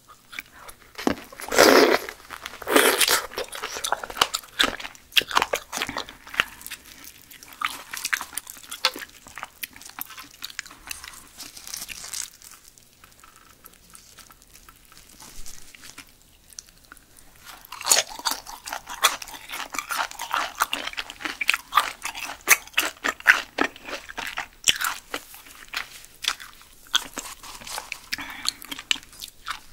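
Close-miked biting and chewing of giant silkworm pupae, crunchy and crackling, their skins bursting as they are bitten. The chewing goes quieter for a few seconds about halfway through, then picks up again.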